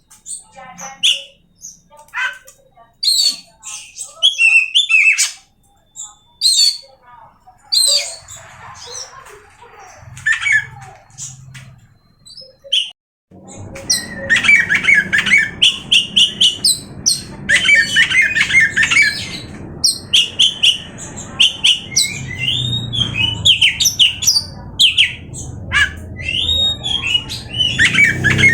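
Oriental magpie-robin (kacer) singing a rapid, varied string of whistles, trills and harsh squawky notes. About halfway through, a steadier low background noise comes in and the notes get denser.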